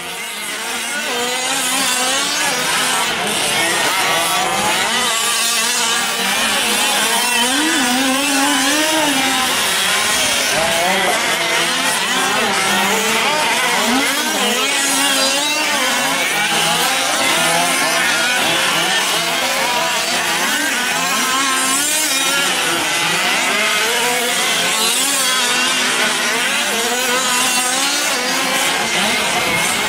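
Several fifth-scale gas RC trucks' small two-stroke engines running together in a race, their pitches constantly rising and falling as each is throttled up and down. The sound fades up over the first couple of seconds.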